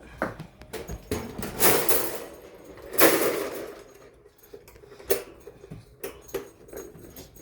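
A puppy rummaging among objects: irregular knocks and clatters, with two louder scraping rustles about one and a half and three seconds in.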